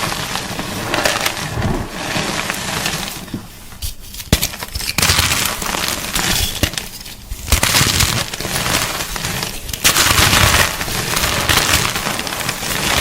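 Gym chalk (magnesium carbonate) being crunched: dense, crackly crushing in several stretches, with two short lulls and the loudest crunching near the end.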